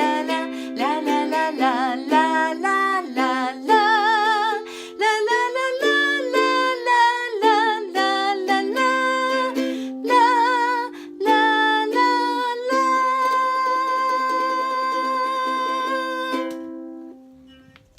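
Ukulele strummed through a simple C, F, Dm, G7 chord pattern while a woman sings the melody with vibrato on wordless syllables. It ends on a long held chord and sung note that ring out and fade.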